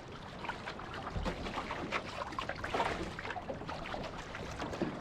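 Water splashing and trickling around a Draco OC-1 outrigger canoe as it is paddled on flat water, in uneven splashes about a second apart.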